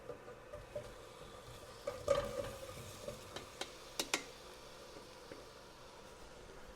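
Scallions sizzling faintly in olive oil in a pot, stirred with a utensil, with a few sharp clicks and scrapes against the pot, the loudest about two seconds in.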